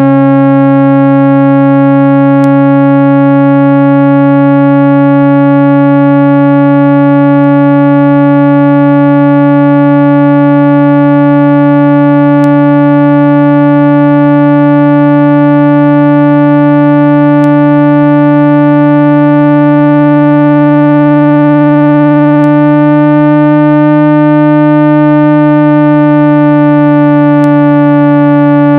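Loud, steady low synthesized tone with many overtones, a speaker-cleaning tone played to vibrate water and dust out of a phone speaker. Its pitch wavers slightly near the end.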